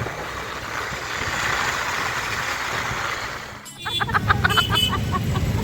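Steady rush of wind and road noise from a motorcycle ride in the rain. It breaks off suddenly about three and a half seconds in, and a low steady hum with a few short, high sounds follows.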